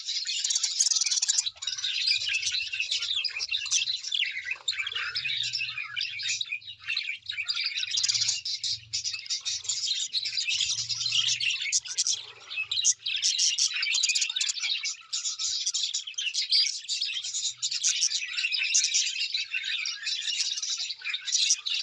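Many small birds chirping at once in a dense, unbroken chorus of high, quick calls.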